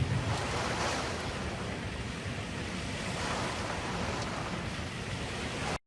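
Steady rushing noise with a low thump right at the start; it cuts off suddenly near the end.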